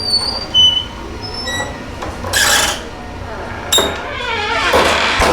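Creaky school door on a Sargent door closer moving, with a sharp latch click about three and a half seconds in and a falling creak near the end. Voices chatter in the background.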